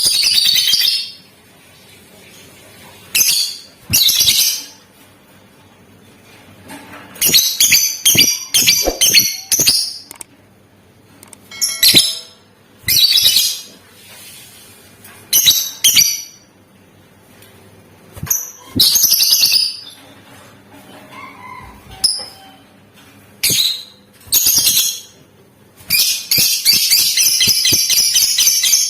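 Lovebird calling in bursts of shrill, high-pitched chatter separated by short pauses, ending in a longer run of about three seconds.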